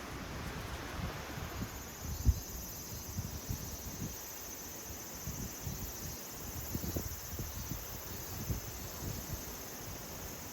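Insects, likely crickets, chirring steadily in a high, fine pulsing hum. Under it run irregular low bumps and rumbles, with one sharper knock about two seconds in.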